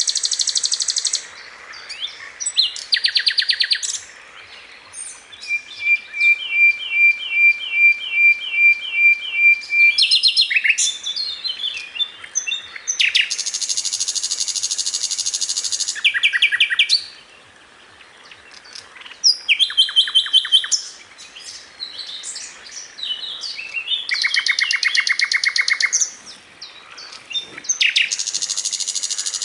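Sikatan londo song: a string of fast, buzzy high trills and chattering phrases broken by short pauses, with a slower run of about a dozen evenly spaced repeated notes a few seconds in.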